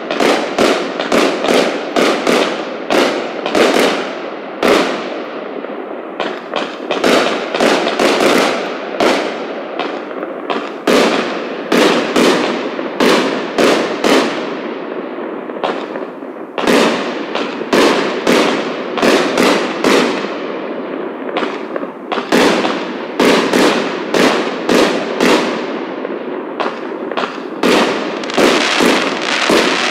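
A 54-shot, 500-gram consumer fireworks cake (Club 54) firing shot after shot, about two a second. Each shot is a sharp report, heard over a dense, steady crackle from the bursting stars. The pace slackens briefly a few times.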